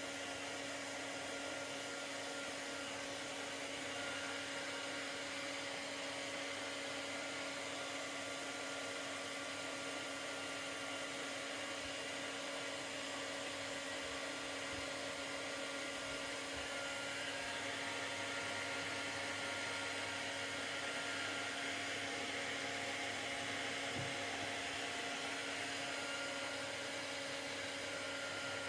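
Hair dryer running steadily on one setting: a constant rush of air with an even motor whine.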